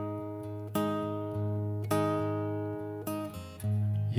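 Acoustic guitar strumming sustained chords in a short instrumental gap between sung lines, each chord struck and left to ring and fade before the next, about four strums in all.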